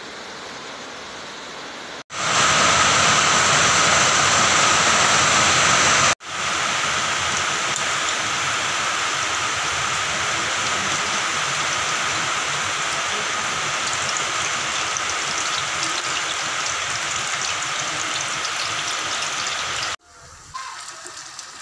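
Potato pieces frying in hot oil in a wok: a steady, loud sizzle that starts abruptly about two seconds in, steps down slightly about six seconds in and cuts off near the end.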